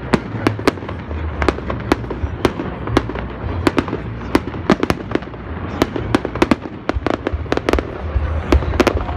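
Fireworks display: a rapid, irregular string of sharp bangs and crackles from shells bursting, several a second, over a steady low rumble.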